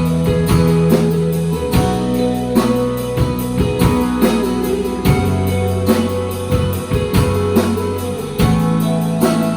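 Rock band playing live: electric guitar lines over sustained bass notes and a steady drum beat, with no singing.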